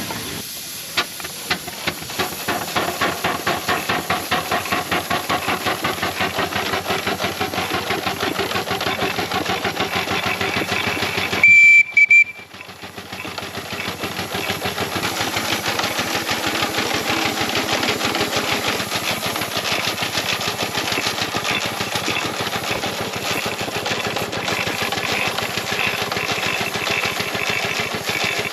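4-inch scale Burrell single-cylinder steam traction engine running, its exhaust beating in a rapid, even rhythm with steam hiss. About twelve seconds in, a steam whistle gives one short, loud, high blast.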